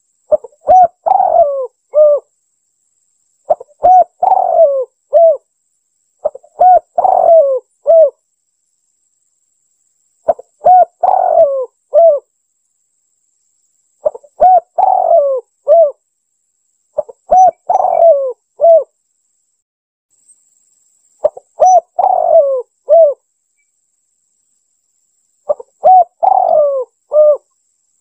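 Spotted dove (tekukur) cooing its song eight times, one phrase about every three and a half seconds. Each phrase is a short note, a longer loud coo, and two short closing notes. This is a dove lure call used to draw in wild birds.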